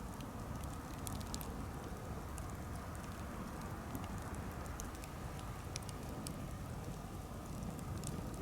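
Campfire burning, with irregular sharp crackles and pops from the wood over a steady low rumble.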